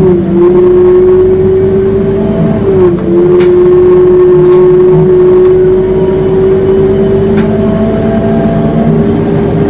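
Scania K230UB city bus howling on the move: a loud, steady high whine over the engine that dips briefly twice, just after the start and about three seconds in, with a couple of faint rattling ticks.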